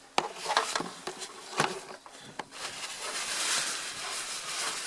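Hands and tools working the oil filter housing on a VW 1.9 litre engine: a few sharp clicks and knocks, then about two seconds of rustling, rasping hiss near the end.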